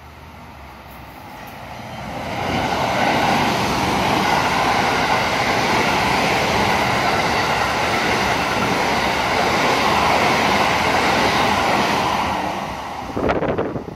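JR West Biwako Line Special Rapid electric train passing at speed: the rail noise builds over the first two seconds, holds steady and loud for about ten seconds, then falls away. Near the end, gusts of wind hit the microphone.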